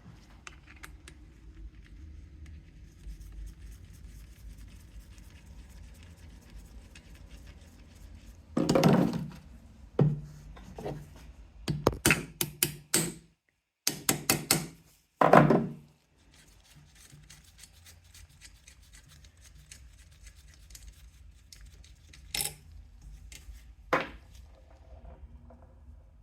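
Knocks and clatter of engine parts and tools being handled on a workbench: a run of loud, sharp knocks through the middle, then two single clicks near the end, over a faint low hum.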